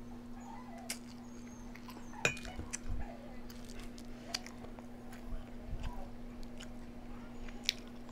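Close-miked chewing and biting of food, with a few sharp clicks scattered through, over a steady low hum.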